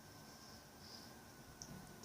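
Near silence: room tone with a faint steady hum and a couple of tiny clicks.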